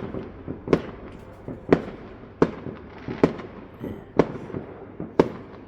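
Fireworks going off: a run of sharp bangs about once a second, with smaller pops in between.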